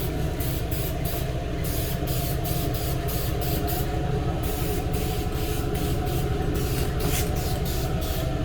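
Aerosol spray paint hissing in short, frequent passes as a light tack coat of candy paint is misted onto a car body, over a steady low hum.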